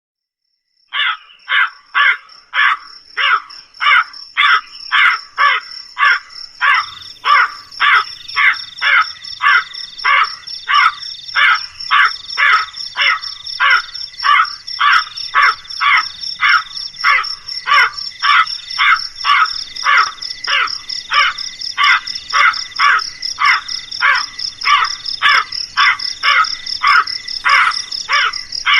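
Crows cawing over and over in a fast, even series of about three short calls a second, starting about a second in. A steady high-pitched tone runs underneath.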